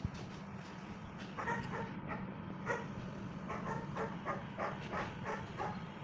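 A dog whimpering in a run of short, high calls, about two a second, over a steady low hum.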